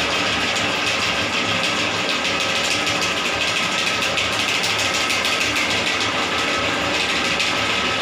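Drain-cleaning machine motor running steadily while a blocked toilet is cleared.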